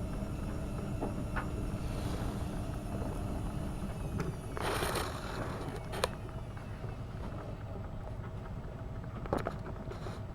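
AEG Öko-Lavamat 72520 front-loading washing machine running a hot wash: a steady low hum of the drum and motor, with a brief louder rush about halfway through and two sharp clicks later on.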